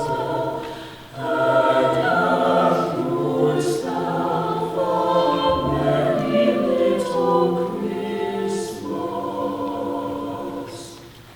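High school madrigal choir singing a cappella in several parts, with sustained chords. The sound dips briefly about a second in, and the phrase dies away near the end.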